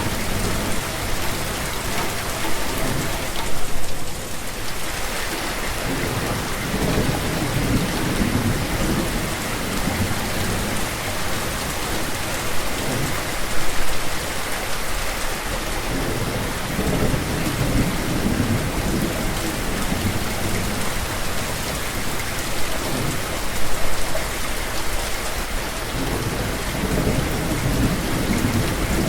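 Steady heavy rain, with low rumbles of thunder coming and going and a few brief louder peaks about every ten seconds.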